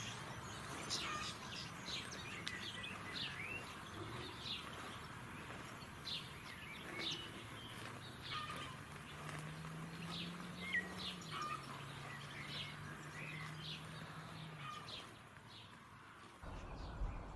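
Small birds chirping repeatedly in the background, many short, quick calls. A low steady hum sounds under them for several seconds in the middle.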